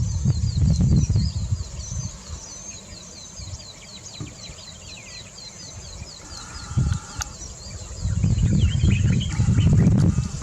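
Bird and insect sounds: a fast, steady series of high chirps, about five a second, with a steady high insect hiss and a few other bird calls. A low rumble, the loudest sound, comes in the first second or so and again for the last couple of seconds.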